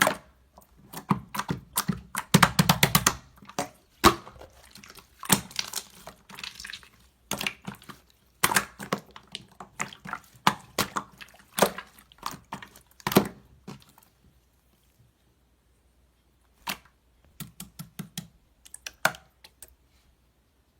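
Pearl slime being squished and stretched by hand, making sticky clicks and small air-bubble pops, with a dense run of pops about two to three seconds in. The clicking stops for a couple of seconds, then a few more clicks come near the end.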